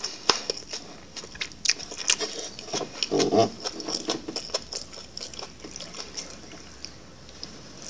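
Close-miked eating mouth sounds: chewing with small wet clicks and lip smacks, a little fuller just after three seconds in.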